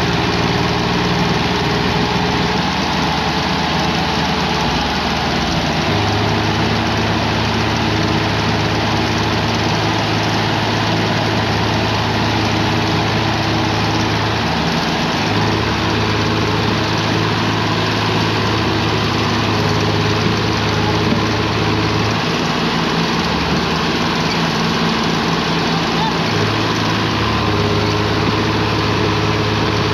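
Tractor diesel engines running steadily, the low engine note strengthening and dropping back in stretches of several seconds.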